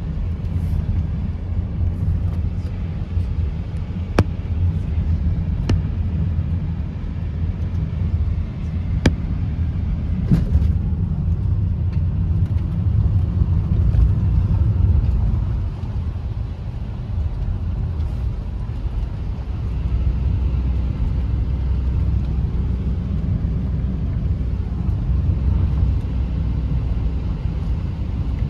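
Car running with a steady low rumble, broken by a few sharp clicks.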